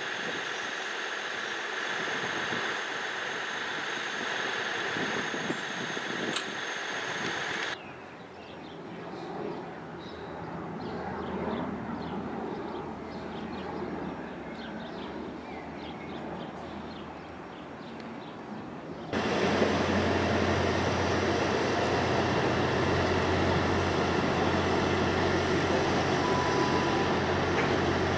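Railway train noise in three cut-together clips, changing abruptly twice; the last part carries a steady low engine hum.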